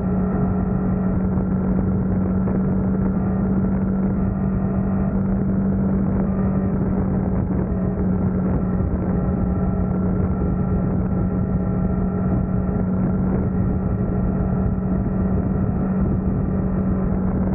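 Honda Transalp motorcycle engine running at a steady cruise, one constant drone with no change in pitch, under muffled road and wind noise.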